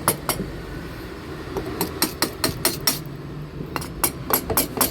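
Sharp metallic clinks and taps of hand tools on scooter engine parts during a half-engine teardown: a couple at the start, then two quick runs of clinks in the second half.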